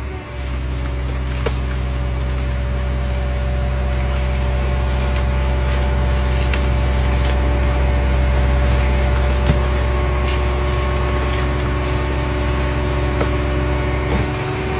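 A motor running steadily: a low drone carrying several steady tones, with a few faint clicks.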